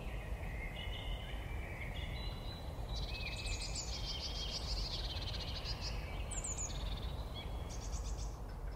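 Songbirds chirping and trilling, several calls overlapping with quick downward-sliding notes, over a low steady outdoor rumble.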